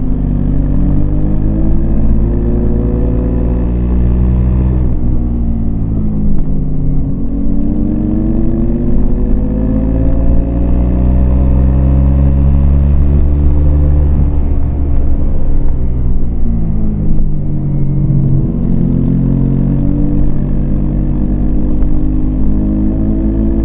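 Yamaha MT-25's 250 cc parallel-twin engine running under way. Its revs sink and climb in long, smooth sweeps several times: a drop in the first few seconds, a rise and fall through the middle, then a dip and a steady climb again near the end.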